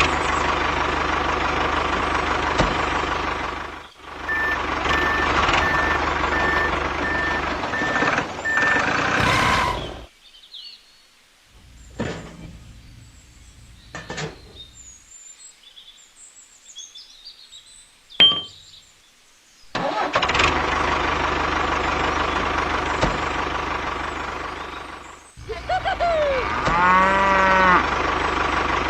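An engine running steadily in two long stretches, cutting out for about ten seconds in the middle. A row of short, evenly spaced beeps sounds over the engine between about four and nine seconds, and a brief pitched call comes near the end.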